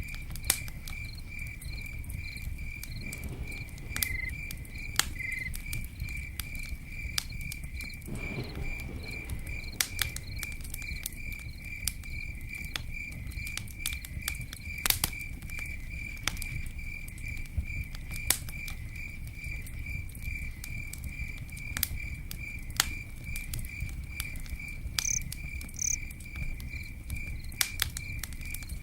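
Campfire crackling, with frequent sharp pops over the low rush of the burning wood. A cricket chirps in a steady, even pulse behind it.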